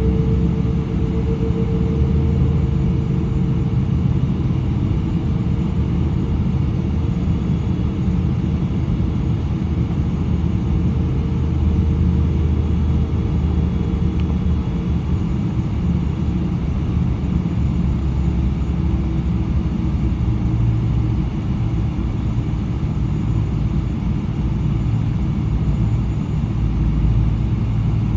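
Cabin noise inside a Boeing 777-300, a steady low rumble from its Rolls-Royce Trent 800 engines and airflow. A single hum tone rides over the rumble, rising slightly, and fades out about halfway through.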